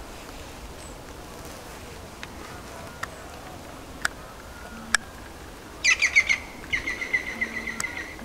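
A bird calling in two rapid chattering runs of notes, about six and seven seconds in, after a few scattered sharp clicks.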